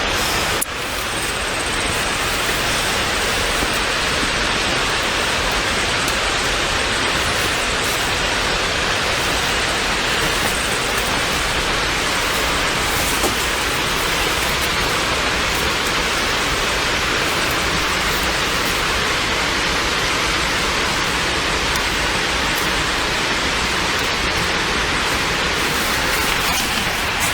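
Steady, even rushing noise, with a brief drop in level less than a second in.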